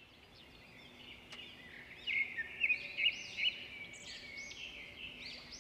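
Several birds chirping and twittering together, many short high calls overlapping, loudest and busiest through the middle.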